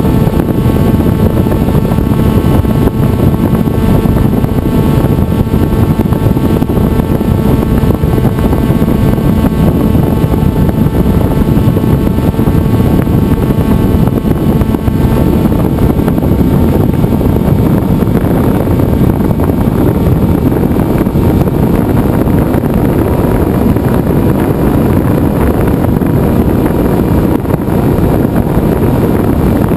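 Electric motor and propeller of a Venturi FPV flying wing in flight, heard from the onboard camera: a loud, steady whine over heavy wind rush on the microphone.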